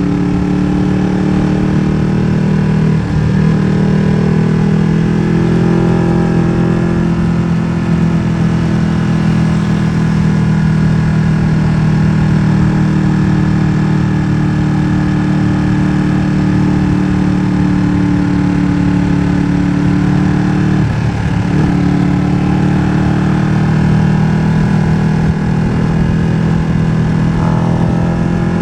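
Ducati Streetfighter V2's 955 cc Superquadro V-twin running loud through a MIVV exhaust with the dB killer removed, its note holding mostly steady with brief breaks about three seconds in and again about twenty-one seconds in.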